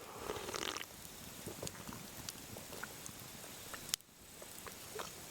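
Wood campfire crackling softly, with scattered small pops and one sharper crack about four seconds in.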